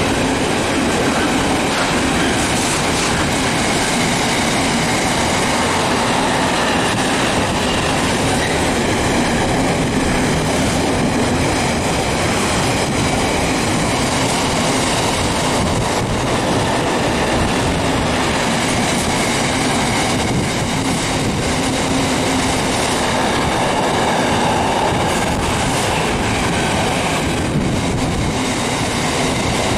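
A train passing close by: a loud, steady rumble of wheels on the rails.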